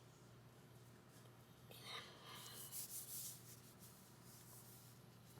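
Eraser rubbing on paper: a few soft, brief scrubbing strokes between about two and three and a half seconds in, otherwise near silence.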